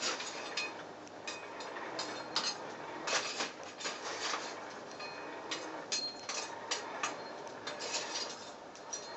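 Irregular light clicks and metallic clinks of small hard objects being handled and knocking together, some with a short ring.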